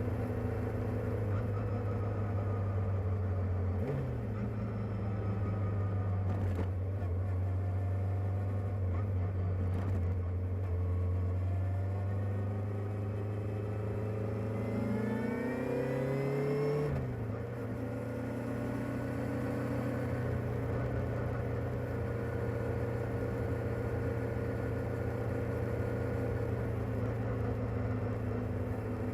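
Kawasaki ZR-7S's air-cooled inline-four on its stock exhaust, idling steadily. It takes a quick blip of the throttle about four seconds in, then a longer rev that climbs and drops back to idle about halfway through.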